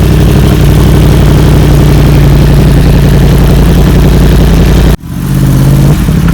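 A vehicle engine idling loudly and steadily close by; the sound cuts out abruptly about five seconds in and picks up again at once.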